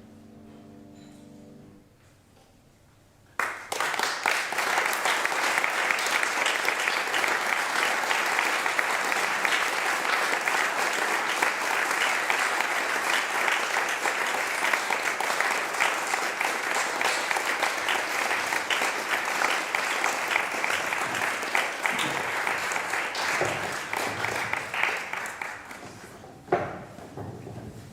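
A last held chord of the music dies away, and after a short pause an audience breaks into applause about three seconds in, clapping steadily for some twenty seconds before thinning out near the end.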